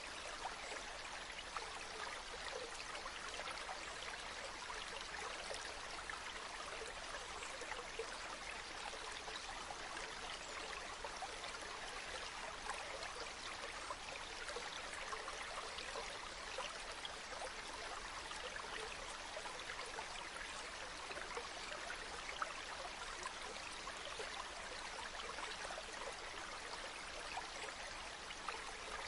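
Running water of a small stream: a steady, even rush, flecked with many small splashes and gurgles.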